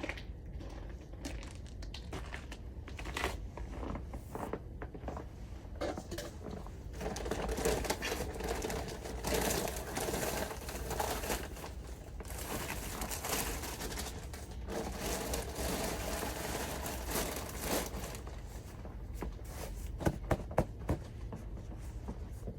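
Footsteps crunching through snow: an irregular run of crisp crunches that thickens in the middle, with a few sharper, louder crunches near the end.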